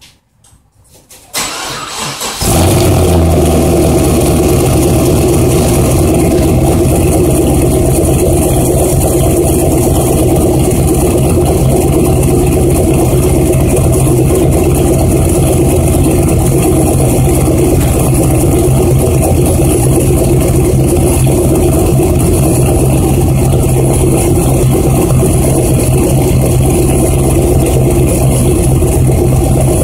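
Pontiac GTO's V8 cold-starting through an SLP Loud Mouth catless exhaust: a brief crank about a second in, catching after about two seconds, then idling loudly and steadily.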